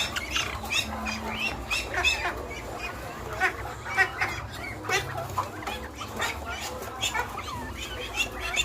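Several northern bobwhite quail calling together: many short, high chirping calls, several a second, overlapping one another.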